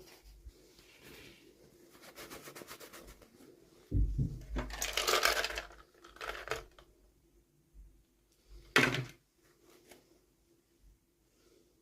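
Hands opening toy packaging: a quick rasping run of clicks, a soft thump about four seconds in, then loud crinkling of plastic or paper wrapping, and a short sharp crinkle near the end.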